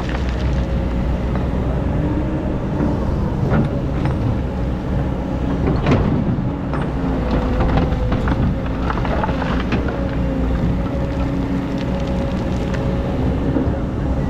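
Excavator's diesel engine running steadily under load, with a thin steady whine over the low hum and scattered sharp knocks.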